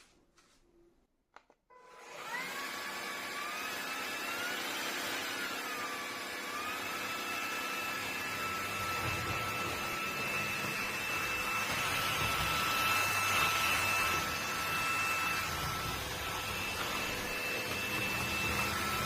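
A cordless stick vacuum is switched on after a couple of small clicks. About two seconds in, its motor spins up with a rising, wavering whine, then runs steadily with a high whine over the rush of air.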